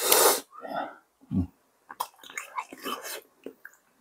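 Close-up mouth sounds of a person eating: a breathy exhale at the start and a brief low hum, then the wet smacks and clicks of chewing.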